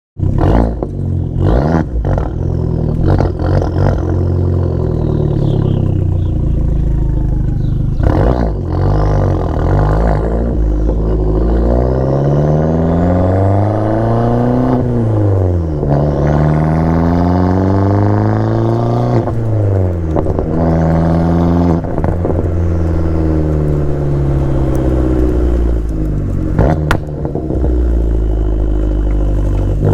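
Abarth 500's turbocharged 1.4-litre four-cylinder engine running through an El Gato aftermarket exhaust with a 200-cell high-flow cat, accelerating hard. The pitch climbs and drops back several times as it goes up through the gears, with a few sharp cracks along the way.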